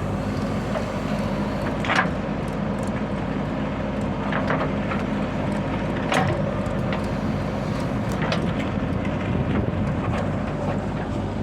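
Heavy diesel machinery engine running steadily, with four short, sharp knocks spread through.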